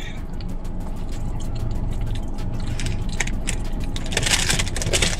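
Close-up chewing and mouth clicks over a steady low hum. About four seconds in, a paper food bag starts to rustle.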